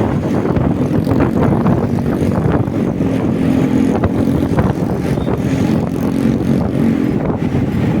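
Motorcycle running at a steady pace on the road: a steady engine hum under road noise.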